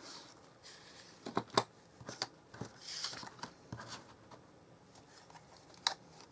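Scattered light taps and clicks of a clear stamp on an acrylic block being pressed onto an ink pad and handled, with a short rustle about three seconds in.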